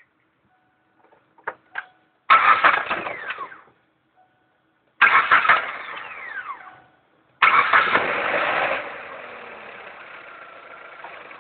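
Suzuki Reno's four-cylinder engine started three times in quick succession, each start carrying a whine that falls in pitch as it dies away. The first two starts fade out within a couple of seconds. The third settles after about a second into a lower, steady running sound. A few faint clicks come before the first start.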